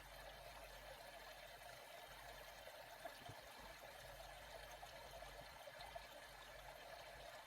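Faint, steady rush of water moving around a kayak, with a couple of light ticks.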